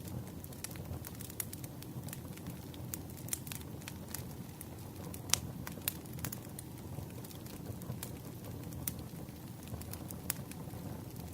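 Campfire burning: a steady low rumble of flames with frequent sharp wood crackles and pops, one pop louder than the rest a little after the middle.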